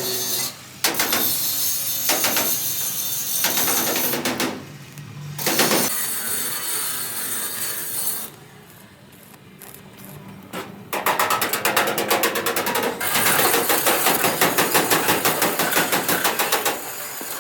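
Hand-tool work in a body repair shop in short abrupt stretches: scraping and rubbing, then a fast run of strokes about five a second near the end.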